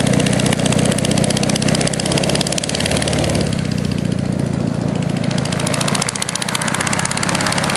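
The ultralight's stroked two-cylinder Volkswagen-based engine idling steadily, a fast even beat of firing pulses.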